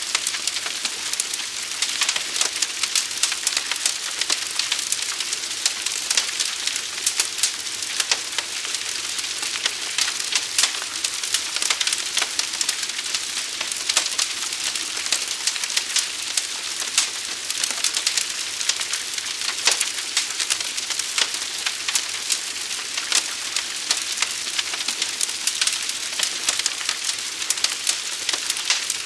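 Fire burning with a steady hiss and constant sharp crackles throughout.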